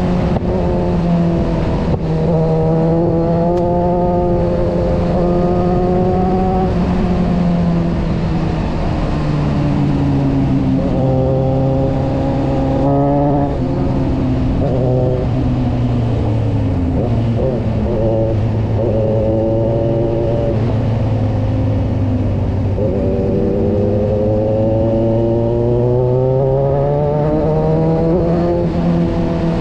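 Kawasaki motorcycle engine heard from on board while riding, over wind rush. Its pitch holds steady, drops and shifts through the middle with a short blip of revs about halfway, then climbs steadily near the end as the bike accelerates.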